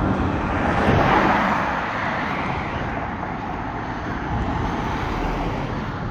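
Road traffic beside the pavement: a car passing close by, its tyre and engine noise swelling about a second in and then easing into a steady traffic hum.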